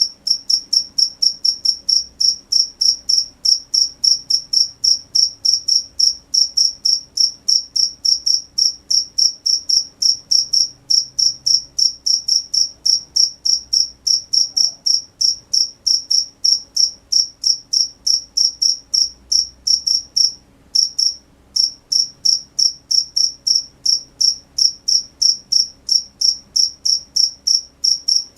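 A cricket chirping steadily in short, high-pitched, evenly spaced chirps, about three a second, with a brief pause about 21 seconds in.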